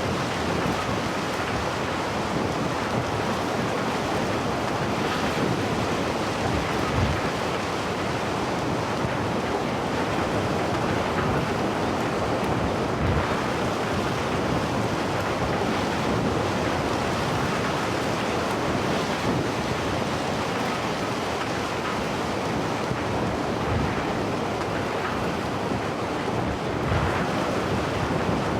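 Steady rushing noise of moving water, with wind buffeting the microphone.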